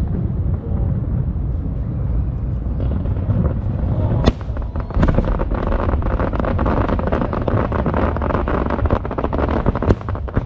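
Aerial fireworks going off: a continuous low rumble of booms, with a sharp bang about four seconds in and another just after. From then on dense crackling continues, with more sharp bangs near the end.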